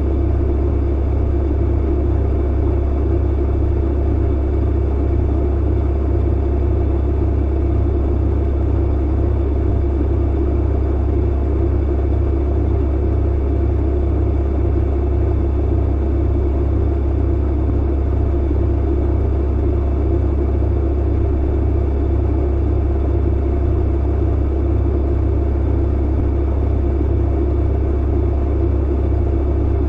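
Clothes dryer running: a steady, unchanging rumble with a strong deep hum and a few faint steady tones above it.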